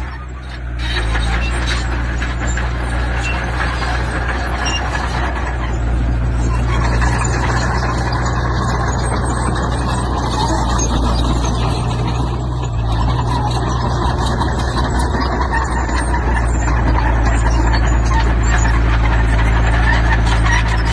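Diesel engine of heavy earthmoving machinery running steadily, with a dense mechanical clatter over its low drone.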